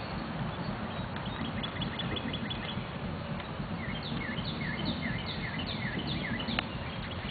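A bird singing over a steady rushing background noise: first a quick run of short high notes, then a string of about seven swooping whistled notes, each dipping and rising again.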